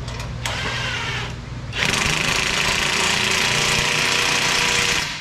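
A power tool running steadily for about three seconds, then cutting off suddenly. A few clicks and a short whirr come before it.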